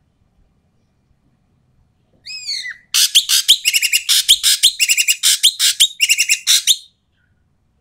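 Ekek keling bird calling loudly and harshly: one swooping call about two seconds in, then a fast burst of raspy chattering calls for about four seconds, with two short breaks.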